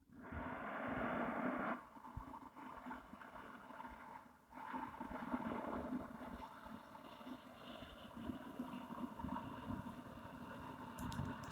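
Slow, audible breathing through the throat with the mouth closed: Taoist 'fire' breathing, a hissing sound in the throat like a drawn-out "kh". It is a long, steady breath with short breaks about two and four and a half seconds in.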